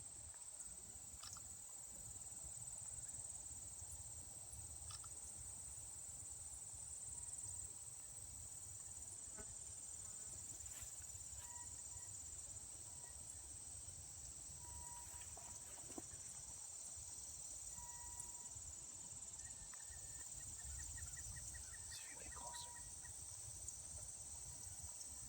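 Steady, faint, high-pitched chorus of insects singing, over a low rumble.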